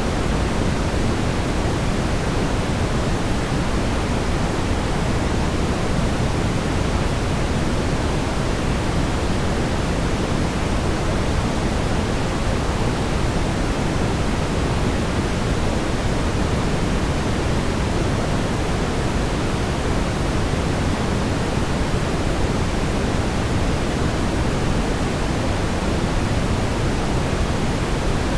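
Steady, unchanging brown noise: a deep, even rumble-hiss strongest in the low end and falling off toward the highs, with no events or changes.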